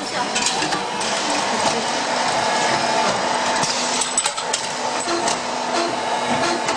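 CNC polygon lathe running and cutting metal: a steady machine hum with many short sharp clicks.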